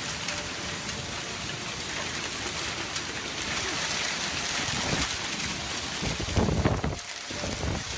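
Heavy rain and strong wind in a steady rushing noise, with gusts buffeting the microphone in loud low bursts near the end.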